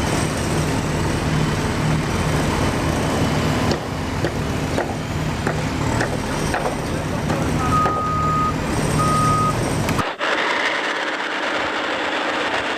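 Truck engine running steadily, with a few clicks in the middle and two short high beeps; about ten seconds in the sound cuts abruptly to a thinner, higher steady hum.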